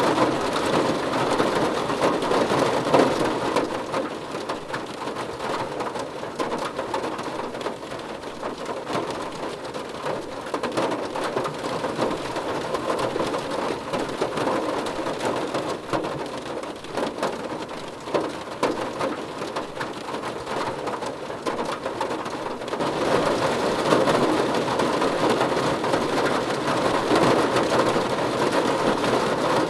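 Steady rain falling, a dense patter of drops over a constant hiss. It eases a few seconds in and grows heavier again near the end.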